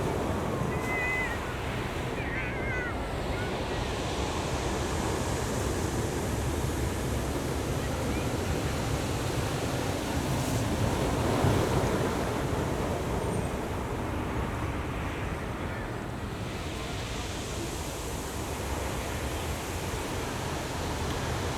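Ocean surf washing onto the beach: a steady rush of breaking waves that swells to its loudest about halfway through, then eases.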